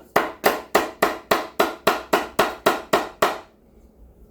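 About a dozen quick, evenly spaced hammer strikes on wood, roughly four a second, stopping a little past three seconds in.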